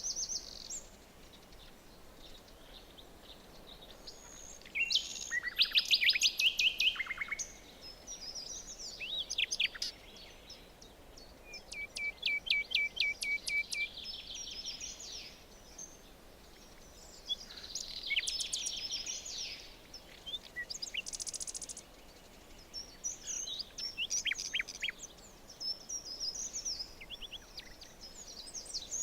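Several songbirds singing in a forest, one phrase after another over a faint steady hiss. The loudest is a burst of quick high notes about six seconds in, and around the middle one bird gives a steady trill of evenly repeated notes.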